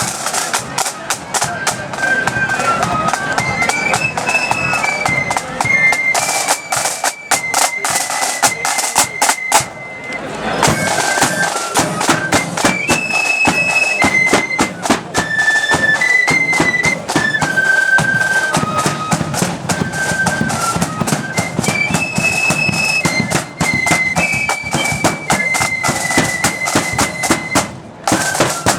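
Marching flute band playing a lively tune, with high flutes carrying the melody over rapid snare and bass drumming. The band breaks off briefly about ten seconds in, then starts again.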